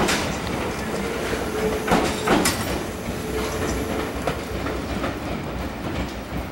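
Tobu 8000-series electric train running away down the line, its wheels clacking over the rail joints several times over a steady rumble that slowly fades as it recedes.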